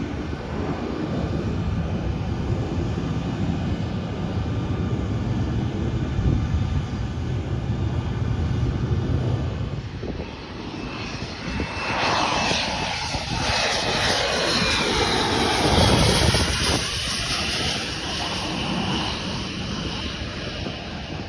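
Airplane engine noise in two stretches. First a steady low rumble with a faint whine. Then a loud rushing roar as an airplane passes overhead, swelling to a peak just past the middle and easing off, with the swirling, phasing sound of a flyover.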